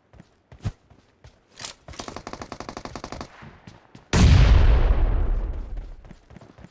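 Video game gunfire: a few scattered single shots, then a burst of automatic fire about two seconds in. About a second later comes a sudden loud blast with a deep rumble that fades away over a couple of seconds.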